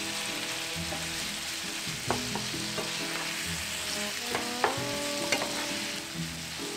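Diced chicken breast, onion and garlic sizzling in oil in a frying pan, stirred with a wooden slotted spatula. The spatula clacks against the pan a few times, most sharply around four and a half to five and a half seconds in.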